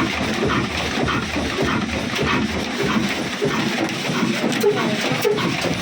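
Old 1967 26 hp diesel engine running steadily, with a dense, even clatter throughout.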